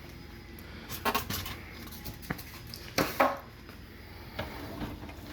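Racks inside a new dishwasher being handled, rattling and clicking: two short bursts of clattering clicks about two seconds apart, then a lighter knock near the end.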